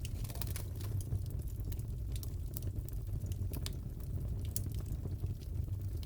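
Wood fire crackling in a fireplace: a steady low rumble of burning with sharp, irregular pops and snaps scattered throughout.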